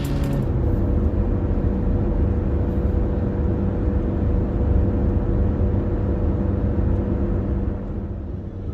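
Car driving on the road, heard from inside the cabin: a steady low rumble of road and engine noise with a faint steady hum over it.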